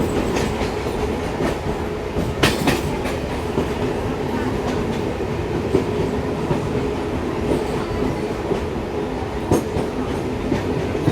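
Indian Railways passenger train running along the track with a steady rumble and hum. Sharp wheel clacks over rail joints come as a pair about two and a half seconds in, then singly a few seconds apart.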